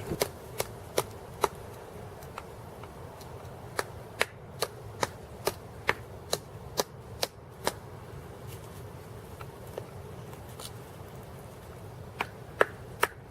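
Light, sharp hammer taps on wood in short runs: a few in the first second and a half, a run of about eight at roughly two a second in the middle, and a few more near the end.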